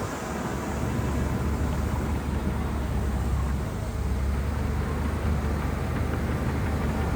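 Shantui bulldozer's diesel engine running steadily with a deep drone, easing briefly just past the middle before picking up again.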